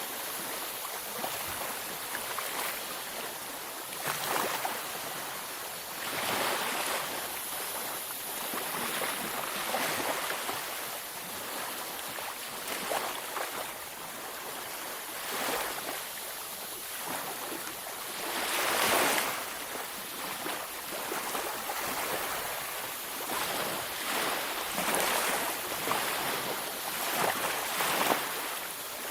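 Beach waves breaking and washing up the shore, a continuous hiss with a surge every few seconds; the biggest wave breaks a little past halfway.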